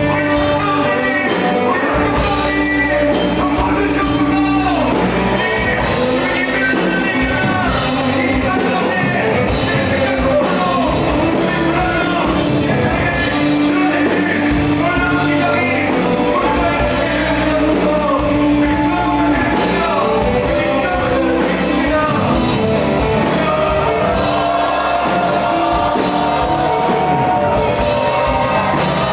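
Live worship band with drums, bass, electric guitars and keyboard playing a rock-style praise song, with a group of vocalists singing in Korean.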